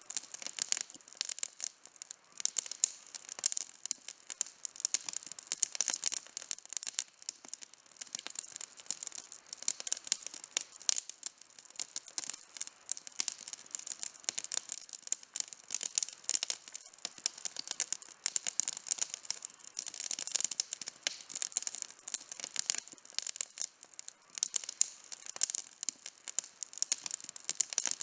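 Campfire burning with a dense, irregular crackle of small pops and snaps from the burning wood.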